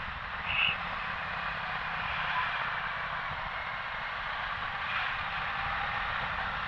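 Motorcycle riding along: steady wind rush on the on-bike camera with the engine running underneath, and a short high chirp about half a second in.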